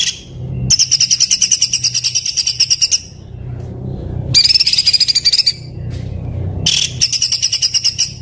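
A songbird singing harsh, very tightly packed rapid-fire trills of the 'tembakan kasar' kind. It comes in three bursts of a second or two each, the notes repeating many times a second.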